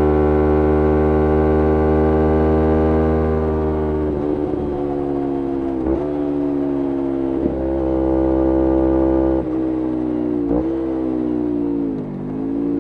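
2011 Kawasaki Ninja 250R parallel-twin with a full Graves racing exhaust, running at steady revs that slowly fall for about four seconds. Then the engine note dips sharply and climbs back several times.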